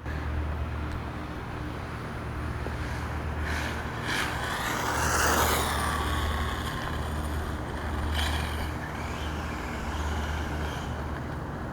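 A 1/5-scale Redcat monster truck running on a test drive: a steady low rumble with a noisy swell that builds and fades about five seconds in, a smaller one around eight seconds, and a faint falling whine near the end.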